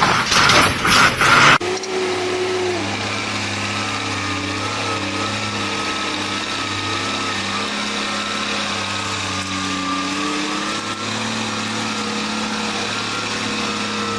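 A loud, noisy rush for about a second and a half, then a sudden change to a heavy truck engine running steadily at an even pitch.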